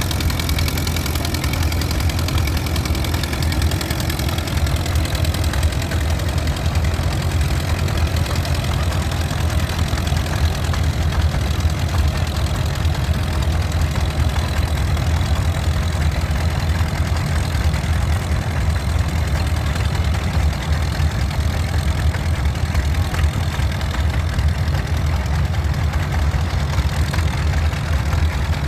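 Vintage tractor engine running steadily at a low, even speed, with no rise or fall in pitch or loudness.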